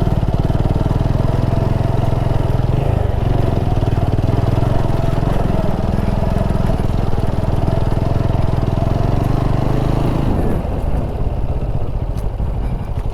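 Motorcycle engine running steadily under way, then easing off about ten seconds in as the throttle is closed.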